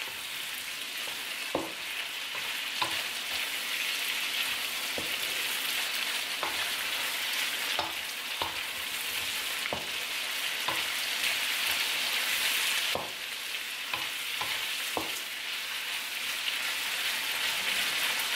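Prawns frying and sizzling in butter and garlic in a wok, with a wooden spatula knocking and scraping the pan every second or so as they are stirred. The sizzle drops a little about two-thirds of the way through.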